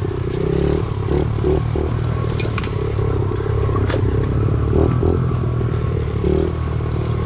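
Pit bike's small single-cylinder engine running on the trail, its pitch rising and falling as the throttle is worked, with rattles and a sharp knock about four seconds in as the bike rides over rough ground.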